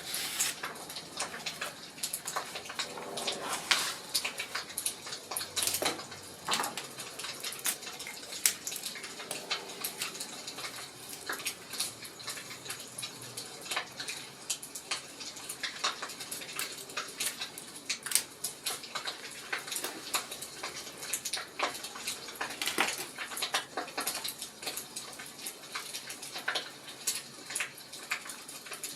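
Wood fire crackling, with irregular small pops and snaps throughout.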